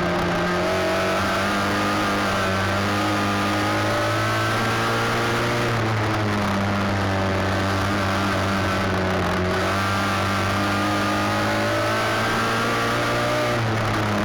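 Midget race car engine running hard at speed, its pitch dipping and climbing back up about every six or seven seconds.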